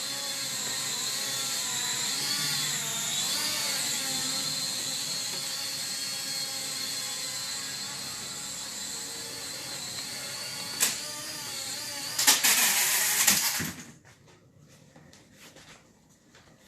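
Small quadcopter drone's propeller motors whining in flight, the pitch wavering up and down as it manoeuvres. A sharp knock comes about 11 seconds in, then a loud clattering crash about 12 seconds in, and the motors cut out about two seconds later as the drone lands upside down with one arm folded in.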